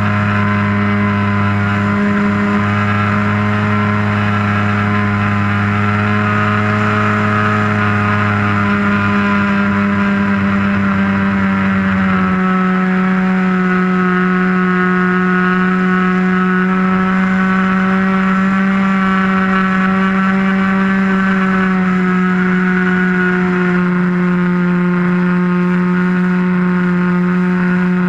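RC airplane's motor running steadily at a constant pitch, heard from a camera on the wing. The pitch steps slightly lower about twelve seconds in and again near the end.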